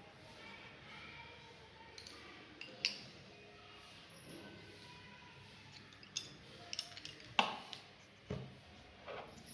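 Scattered small clicks and taps, about half a dozen at uneven intervals, the sharpest about seven seconds in, over faint room tone.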